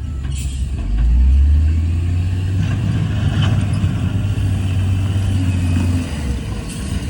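Heavy diesel earthmoving machinery running, a low engine rumble that grows louder about a second in and eases off near the end.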